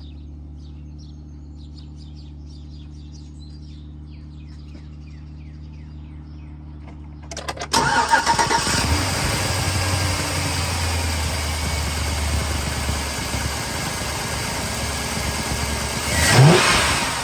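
Chevrolet Silverado truck engine, fitted with a new Airaid cold air intake, cranked by the starter and catching about eight seconds in, then idling. Near the end the throttle is blipped once, a quick rise in pitch and the loudest moment, before it settles back to idle. A steady low hum is heard before the start.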